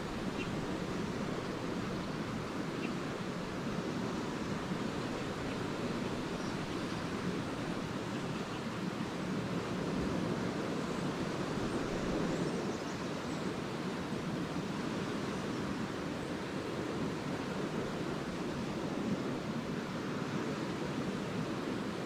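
Small lake waves washing steadily onto the shore of Lake Erie, swelling a little near the middle, with a few faint, short, high twitters of swallows over the surf.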